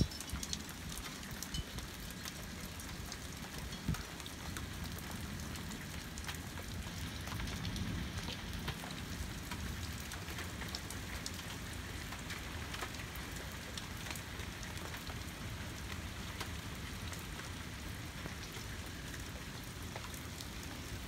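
Steady rain falling in a thunderstorm: an even hiss with scattered ticks of single drops, over a low rumble. One sharp tap comes about four seconds in.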